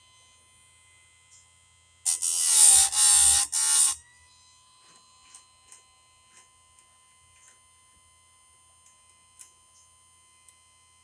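Electric chainsaw-chain grinder running with a steady whine. About two seconds in, its wheel grinds a cutter tooth for about two seconds in three short, harsh passes, sharpening a dull chain. Faint clicks follow.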